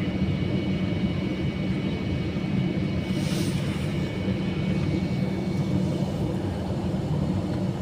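Airbus A321-200's jet engines at low thrust, heard from inside the passenger cabin: a steady rumble with a thin high whine, as the airliner reaches the runway before the takeoff roll.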